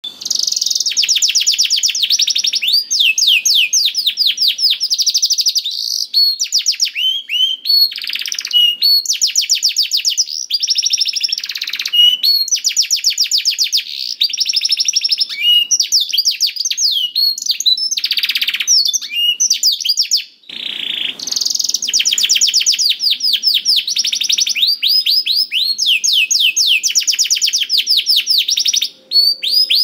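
Canary singing a long, continuous song of fast trills, rapid runs of repeated sweeping notes with only brief pauses between phrases.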